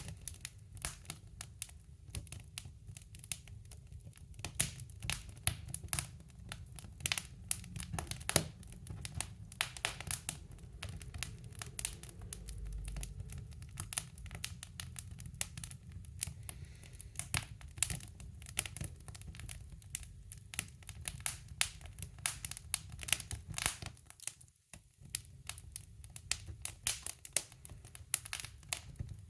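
Wood fire crackling in a woodstove: a dense run of irregular sharp pops and snaps over a low rumble.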